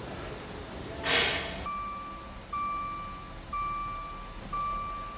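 A short hissing rustle about a second in, then an electronic warning beep that starts repeating, each steady tone lasting nearly a second with a brief gap, about once a second.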